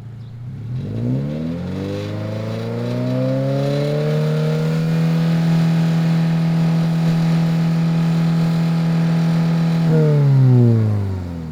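Toyota GR86/Subaru BRZ 2.4-litre flat-four running through a Borla S-Type cat-back exhaust, revving up over about four seconds, holding a steady pitch for about five, then falling back near the end.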